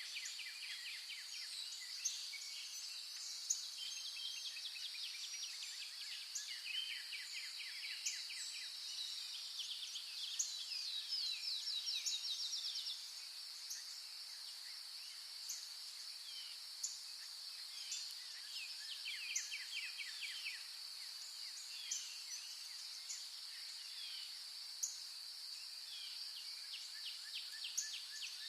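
Outdoor insect chorus: a steady high-pitched drone, with rapid pulsing trills that come and go below it and short sharp ticks every second or two.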